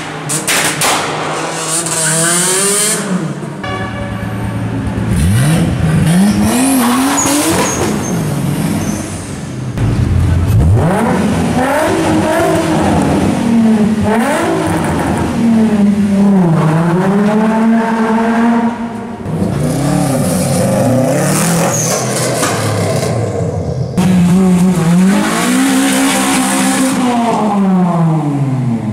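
Modified Japanese cars, a Honda Civic hatchback and a Nissan 350Z among them, revving their engines in a concrete underpass one after another. The engine pitch climbs and drops with each blip of the throttle, and the sound cuts abruptly from one car to the next every few seconds.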